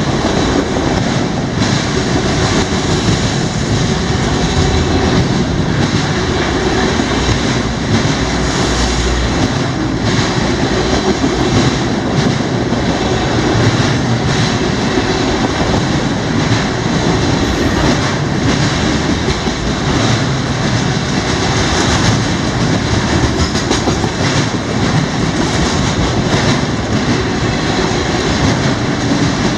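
CSX freight train rolling past close by: a steady, loud rumble of wheels on rail with faint rhythmic clicks from the wheels crossing rail joints.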